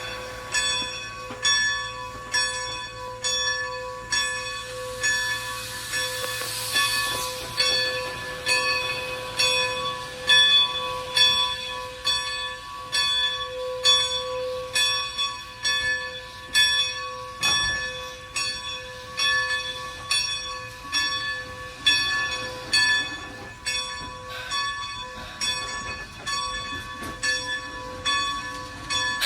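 Steam locomotive bell ringing steadily, struck a little more than once a second, each stroke ringing on into the next.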